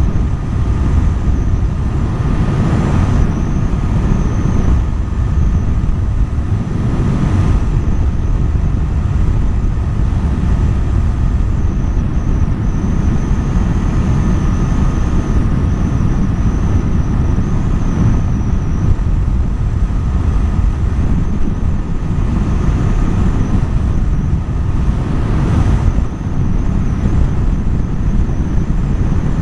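Husqvarna Svartpilen 401's single-cylinder engine running at a steady cruise, with heavy rumbling wind noise on the microphone.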